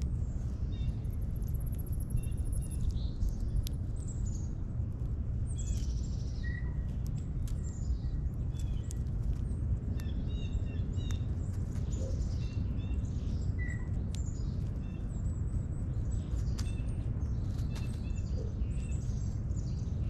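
Several wild birds chirping and calling in short notes, scattered through the whole stretch, over a steady low rumble.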